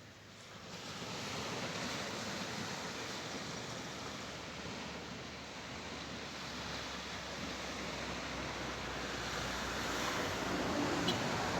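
Surf washing on a beach: a steady rush of waves that fades in over the first second and swells a little near the end.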